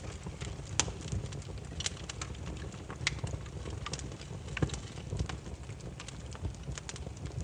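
Wood fire burning, with a low steady rumble of the flames and irregular sharp crackles and pops from the burning logs, several a second, one louder snap about a second in.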